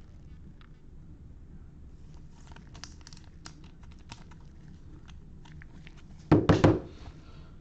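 Baseball card pack wrappers and cards being handled: quick crinkling and rustling clicks, then a louder crunching rustle about six seconds in.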